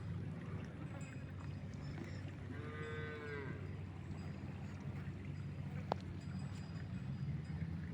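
One of the cattle moos once, a short call about a second long that rises and falls in pitch, over a steady low rumble. A sharp click sounds about six seconds in.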